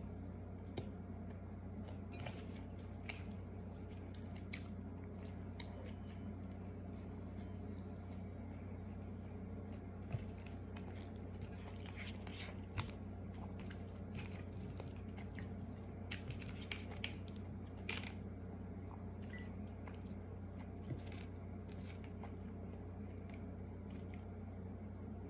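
Close-up chewing and crunching of tuyo (dried salted fish) and egg, with irregular crisp crunches over a steady low hum.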